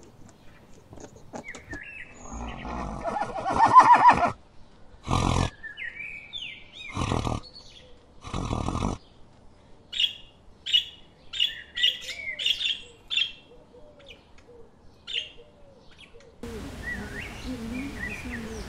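Farm animal calls one after another: a loud drawn-out call, three short harsh calls, then a run of high bird chirps. Near the end the background turns to a steady hiss with low calls under it.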